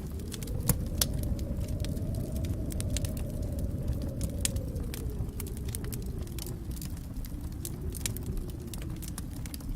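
Wood fire in a fireplace crackling: irregular sharp pops and snaps over a steady low rumble of the flames, with the loudest snaps about a second in.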